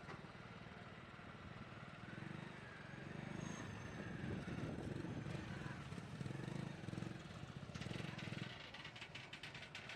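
John Deere 5036D tractor's diesel engine running, growing louder a couple of seconds in, with a fast clicking rattle near the end.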